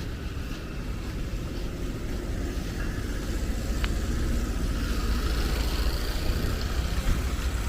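Street traffic: a car's engine and tyres rumbling low and steady, growing louder over the second half, with one sharp click about four seconds in.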